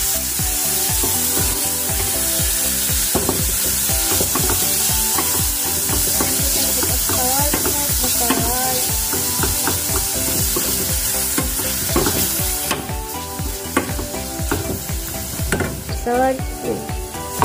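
Raw shrimp sizzling in hot oil in a stainless steel pan while a wooden spatula stirs them, with frequent knocks and scrapes of the spatula against the pan. The sizzle eases off somewhat about two-thirds of the way through.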